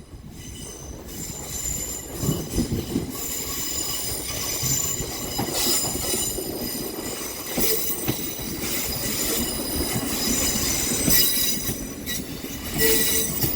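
Class 156 diesel multiple unit pulling into the platform, a rumble that grows over the first couple of seconds and then holds steady. Several high-pitched squealing tones from its brakes and wheels sound over the rumble as it slows.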